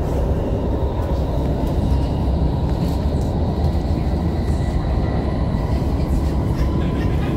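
Cabin noise of a Caltrain Stadler KISS electric multiple unit running on the line: a steady rumble of wheels on track, with a faint steady high whine above it.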